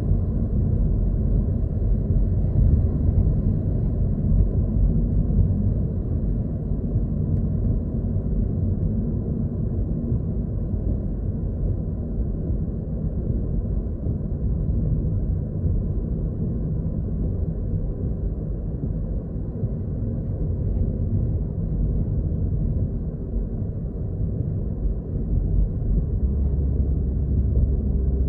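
Car driving, heard from inside the cabin: a steady low rumble of road and engine noise. A steady low hum joins it near the end.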